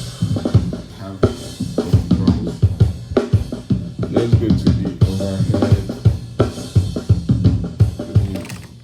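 Multitrack recording played back as a rough mix, with a drum kit prominent: a steady groove of kick, snare and cymbals. It stops right at the end.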